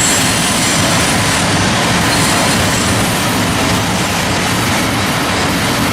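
Freight train cars loaded with steel slabs rolling past, a steady loud rumble and rattle of wheels on rail.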